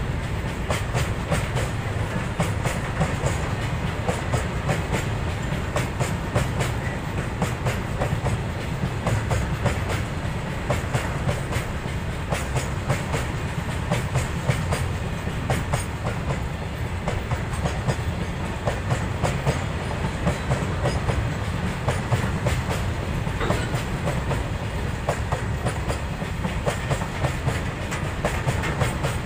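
Long freight train of open-top wagons rolling steadily past close by: a continuous low rumble of wheels on rail, with a dense clickety-clack as the wheels run over the rail joints.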